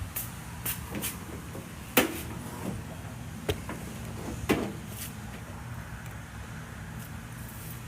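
A few separate knocks and clicks of things being handled, the loudest about two seconds in and another about four and a half seconds in, over a steady low hum.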